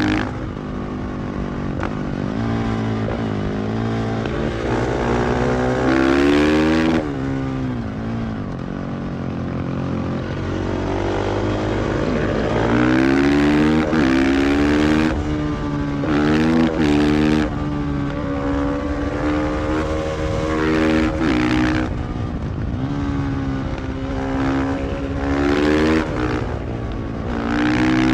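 KTM 500 EXC-F supermoto's single-cylinder four-stroke engine running, its revs climbing and dropping again and again.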